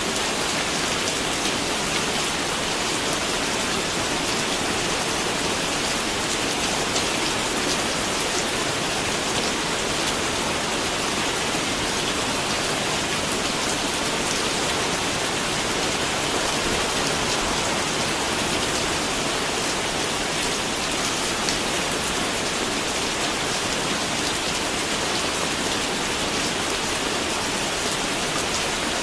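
Steady rain falling on a surface, an even hiss with fine pattering drops.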